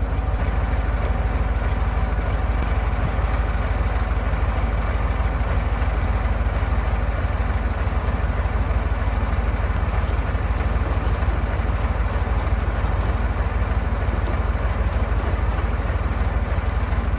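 1985 KAMAZ 4310's V8 diesel engine idling steadily while it warms up after a cold start in frost.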